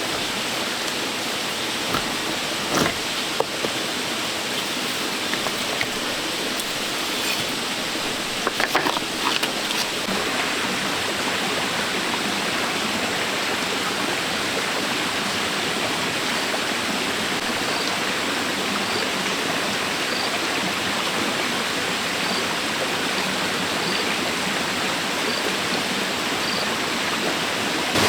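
Steady rush of running water, like a stream, with a few short knocks in the first ten seconds.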